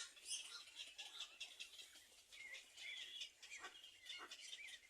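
Small birds chirping faintly: a steady scatter of high, thin chirps, with a quick run of short wavering chirps in the second half.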